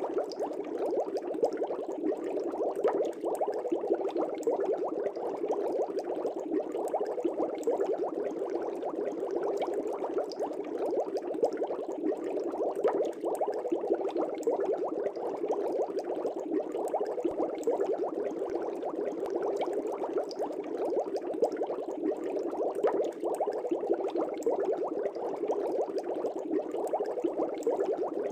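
Aquarium air bubbles rising and breaking at the water surface in a fish tank, a steady dense bubbling crackle.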